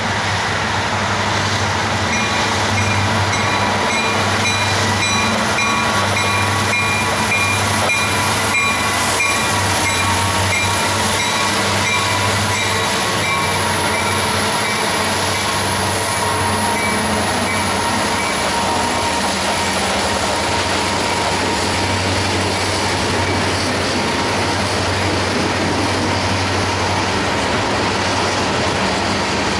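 Freight train passing close by: its diesel locomotives, Union Pacific units among them, run with a steady low engine drone, followed by tank cars rolling past on the rails. A few thin, steady high tones ride over the rumble, mostly in the first half.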